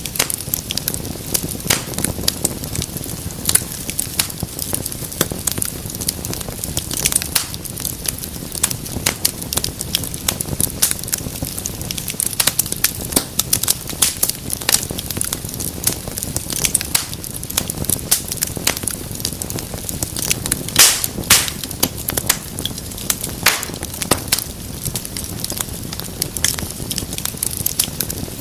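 Wood fire in a fireplace crackling and popping: constant irregular snaps over a low steady rumble of flames, with a louder pop about two-thirds of the way through.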